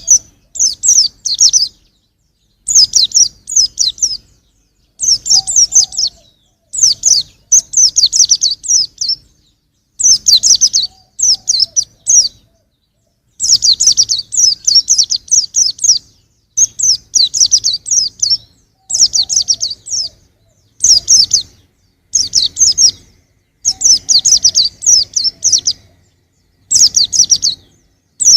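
Young white-eye (pleci) singing: fast, high twittering phrases of one to two seconds, repeated again and again with short pauses between them.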